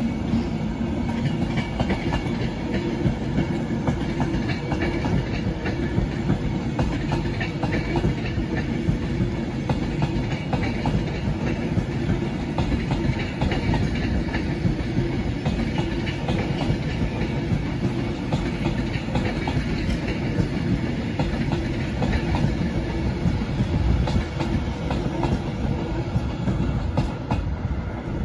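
Train running through the station: a steady rumble with rapid, dense clicking of wheels over the rail joints.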